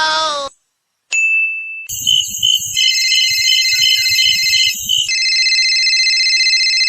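Electronic beeping tones, like a sound effect or ringtone. A short steady high beep, then a high tone pulsing about three times a second, then a steady high tone. The tail of a voice or sung phrase is heard for the first half second.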